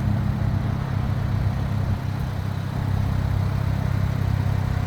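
Ram 1500 RHO pickup's twin-turbo inline-six idling steadily through its custom exhaust.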